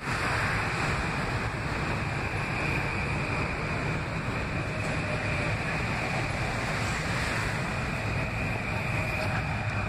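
Metro-North M8 electric multiple-unit train running along the platform: a steady low rush of wheels and running gear, with a steady high whine above it.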